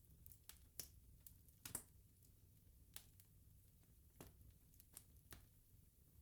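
Faint wood fire crackling: irregular sharp pops and snaps from burning logs, the loudest nearly two seconds in, over a low steady rumble.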